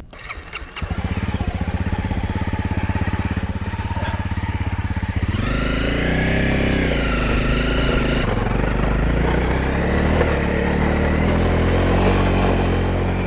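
Dirt bike engine comes in about a second in and idles with a rapid putter, then about five seconds in it revs up and runs under way, its pitch rising and falling with the throttle.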